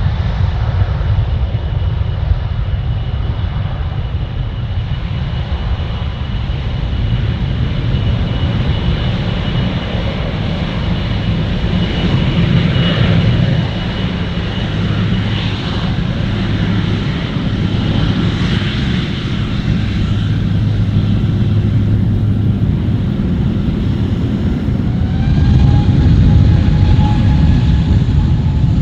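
Jet engines of a Boeing 747-400 freighter running with a steady low rumble and a thin high whine. About 25 s in a new tone rises and the sound grows louder as the engines spool up.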